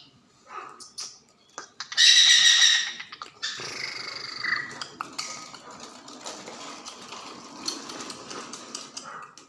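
Black francolin giving one loud, harsh call note about two seconds in, followed by several seconds of fainter, uneven background sound.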